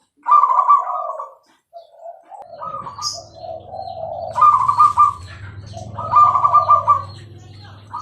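Zebra dove (perkutut) cooing: loud, rapidly trilled coo phrases just after the start, about four and a half and about six seconds in, with softer cooing between them. A low steady hum comes in about two and a half seconds in.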